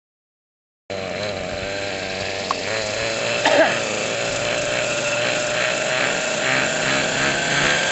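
YS 91SR glow engine of an Avant EFX model airplane running steadily; the sound cuts in abruptly about a second in.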